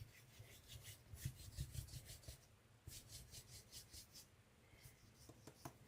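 Faint rubbing strokes of hands rolling air-dry foam clay into a rope on a work surface, in two short runs.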